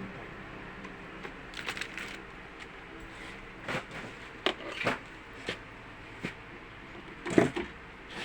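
Irregular clicks, taps and knocks of hand tools working on a safety breaker panel, with the loudest knock near the end.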